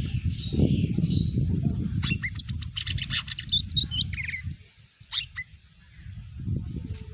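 Cucak ijo (green leafbird) singing: a quick run of sharp chirps and trilled notes about two seconds in, then a few lone calls. Under it a low rumble drops away about four and a half seconds in and returns briefly near the end.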